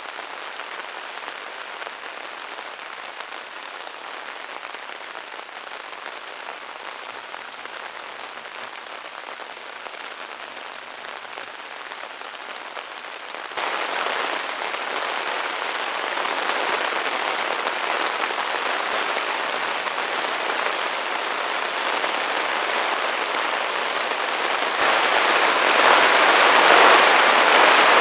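Heavy downpour: a steady hiss of rain pouring down, which jumps abruptly louder about halfway through and louder again near the end.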